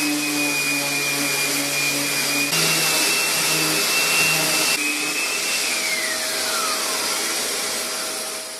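Handheld electric power tool running steadily with a high whine, then switched off a little past the middle, its motor winding down over a couple of seconds. It is being used to shape a chamfer on a chipped veneered edge.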